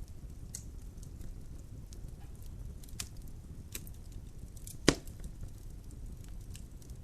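Wood logs burning in a fireplace, crackling with scattered sharp snaps over a low steady rumble, and one loud pop about five seconds in.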